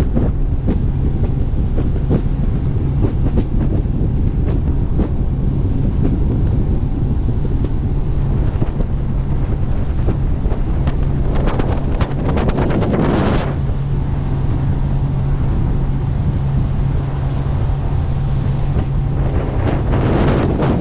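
Jet boat running steadily under way, its engine a constant low hum under heavy wind noise on the microphone, with a louder rushing swell about eleven seconds in and again near the end.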